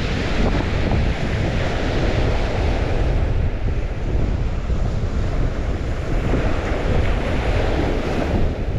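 Waves washing ashore on the St. Lawrence, a continuous rush of water that swells and eases every few seconds, with wind buffeting the microphone as a steady low rumble.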